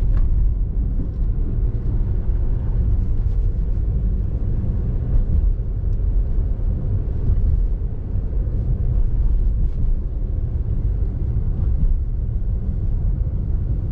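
Steady low rumble of a car driving on snowy roads, heard from inside the cabin: engine and tyre noise.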